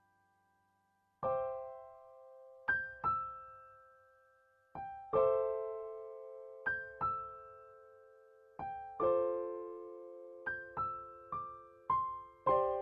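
Background music: slow, gentle solo piano, single notes and chords struck about once a second, each left to ring out and fade.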